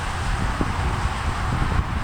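Wind buffeting the microphone with a low uneven rumble, over a steady hiss of road traffic.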